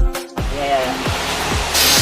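Dance music with a heavy beat cuts away, and a steady rushing hiss from a workshop tool takes over. The hiss gets louder and sharper near the end.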